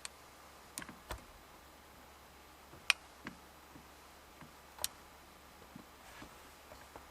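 Scattered sharp clicks and taps, about eight of them, the loudest about three seconds in, over a faint steady hiss.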